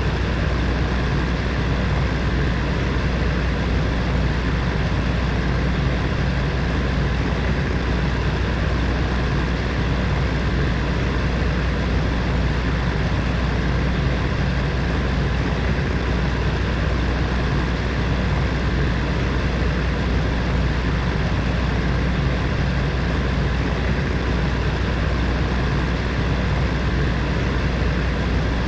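Heater fan running steadily: an even, continuous whooshing noise with a low hum beneath it.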